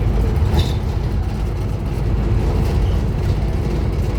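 Scania N230UD Omnicity double-decker bus's five-cylinder diesel engine running with a steady low drone, with a brief high squeak about half a second in.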